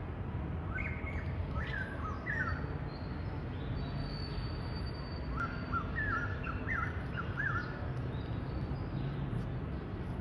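Small birds chirping in two short runs of quick notes, one near the start and one in the middle, over a steady low background rumble.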